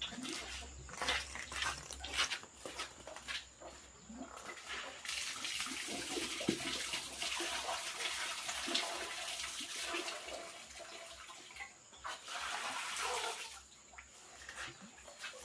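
Water running for several seconds, starting about five seconds in, pausing briefly, running again shortly, then stopping. Chickens cluck around it, mainly before and after the water.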